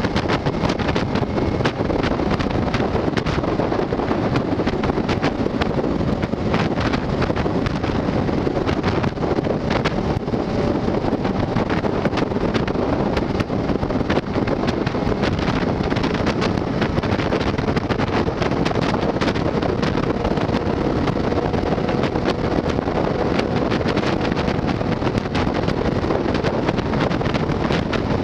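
Heavy wind buffeting the microphone, steady throughout, with a faint hum underneath that rises slowly in pitch in the second half.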